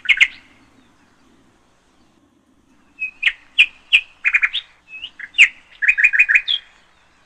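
Small bird chirping: a quick call at the start, then after a pause of about three seconds a run of short, rapid chirps.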